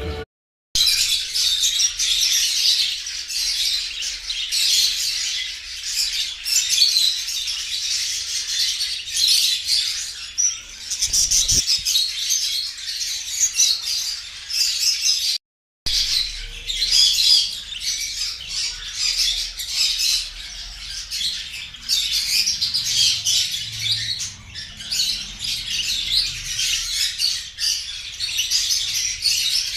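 A flock of birds chirping and squawking, many calls overlapping into a dense, continuous chatter. It cuts out briefly twice, about half a second in and about halfway through.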